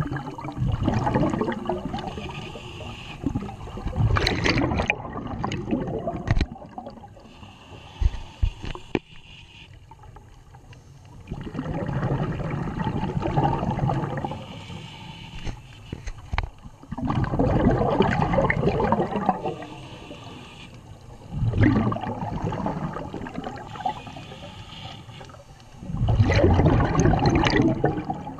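Scuba diver's exhaled bubbles from the regulator gurgling loudly past the microphone underwater, about six bursts in slow breathing rhythm with quieter stretches between.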